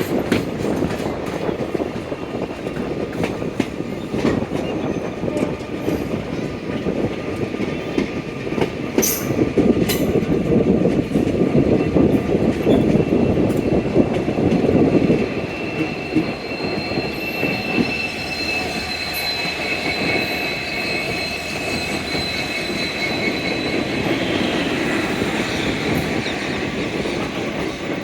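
Passenger train coach running along the track: a steady rumble with repeated clicks of wheels over rail joints, louder for a stretch in the middle. A high-pitched wheel squeal rises over it in the later part.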